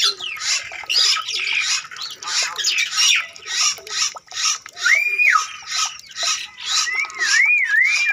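A dense chorus of birds calling in rice fields: rapid, repeated squawking chirps that fall in pitch, with one clear held whistle about five seconds in and a wavering, warbling whistle near the end.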